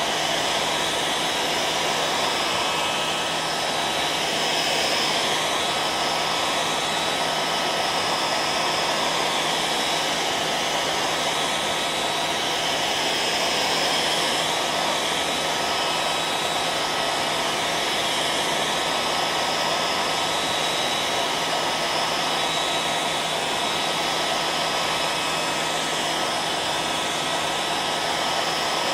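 Hair dryer running continuously, a steady rush of air with a faint whine from its motor.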